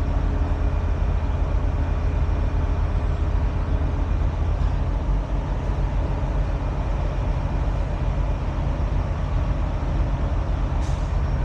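Heavy truck diesel engine idling steadily with a low, even rumble. There is a brief high-pitched sound just before the end.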